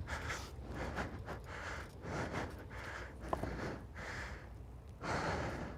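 A person breathing hard and fast, soft rushing breaths in and out about once or twice a second, out of breath after exertion.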